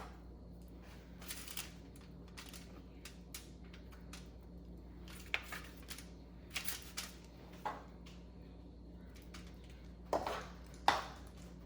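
Kitchen utensil clinking and scraping against dishware in scattered short knocks while food is spooned out, the loudest two near the end.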